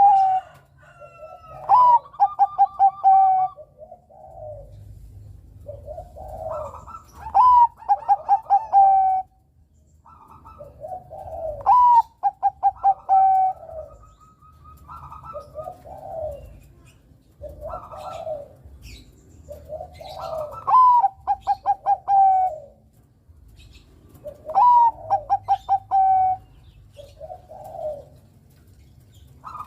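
Zebra doves (perkutut) of the Bangkok type singing. A loud phrase comes roughly every four seconds, each a rising note followed by a quick run of clipped, staccato coos, with softer, lower coos in between.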